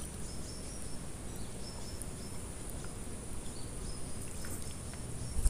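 Outdoor ambience of wind rumbling on the microphone, with a faint steady high insect hum and a few short, high chirps scattered through. A single thump comes right at the end.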